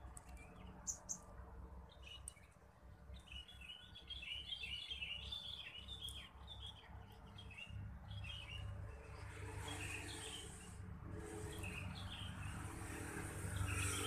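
Small birds chirping: quick clusters of high twittering notes, busiest from about three seconds in, over a low steady background rumble.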